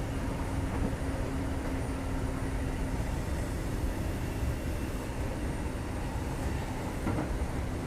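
Kintetsu 2430 series electric train running, heard from inside the car: a steady rumble of wheels on rail with a faint low hum that fades a few seconds in.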